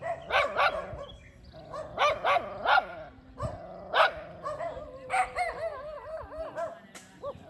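Dogs barking in short, repeated barks, then a wavering, sliding whine in the second half.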